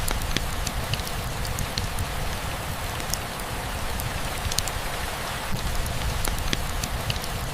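Steady rain, a continuous hiss with a low rumble beneath it and scattered individual drops ticking sharply on a nearby surface.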